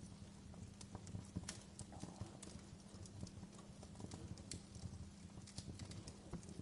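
Wood fire crackling in a fireplace: irregular sharp snaps and pops from the burning firewood over a low rumble of the flames.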